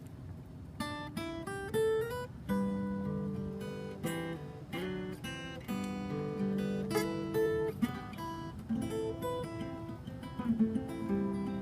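Acoustic guitar played solo: single picked melody notes over held bass notes, the playing starting just under a second in.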